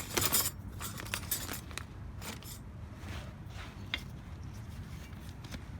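Light metallic clinks and a brief scrape of brake pads and their hardware being handled, a few separate clicks over a steady low hum.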